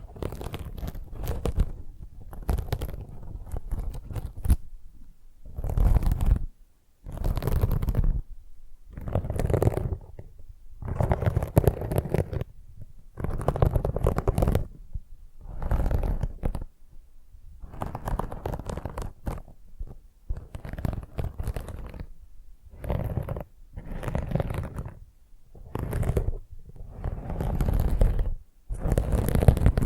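A dish scrubber scratched and rubbed close to the microphone in repeated strokes, each about half a second to a second long, with short pauses between them.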